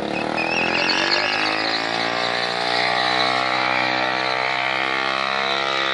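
Motorcycle engine held at high revs: the pitch climbs a little in the first second, then stays steady and loud.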